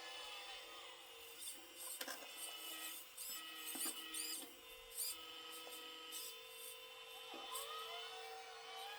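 Small electric drive motors of a homemade 1/12-scale metal RC excavator whining steadily, with tones sliding up and down as they speed up and slow down. From about two to five seconds in there are metal clicks and scrapes from the moving parts.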